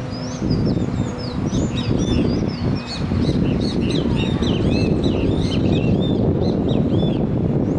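A flock of birds chirping and calling at once: many quick, overlapping high chirps, thickest after about a second and a half. Under them is a steady low rumble, which gets louder about three seconds in.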